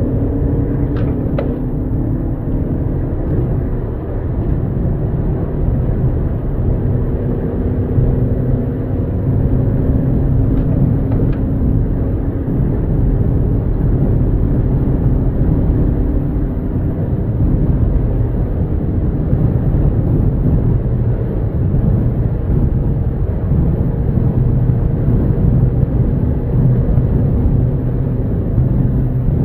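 A 2.0 TDI diesel car driving, heard from inside the cabin: a steady engine drone over road and wind noise. There are a couple of faint clicks about a second in and again around ten seconds in.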